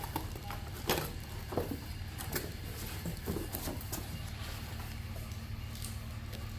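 Irregular knocks, clicks and rustles of packaging and parts being handled, over a steady low hum.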